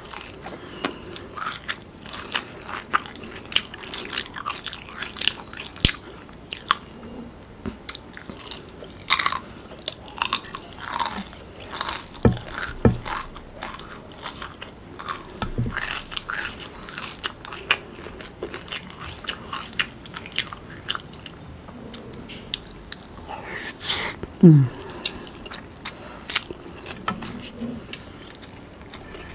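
Close-miked eating of crisp fried Chinese takeout food: crunching bites and chewing, with many short crisp crunches throughout. About 24 seconds in there is a brief low sound that falls in pitch.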